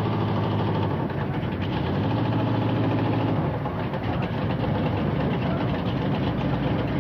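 Tunnel-rammed 426 Hemi V8 idling with a steady, even hum. About three and a half seconds in, the sound turns rougher and less even.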